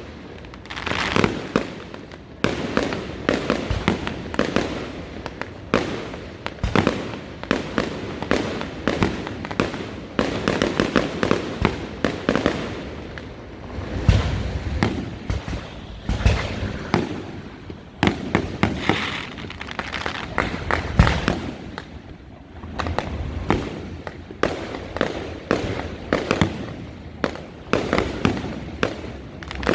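Fireworks display: a near-continuous run of bangs and crackling pops, with deeper booms about halfway through and again a little later.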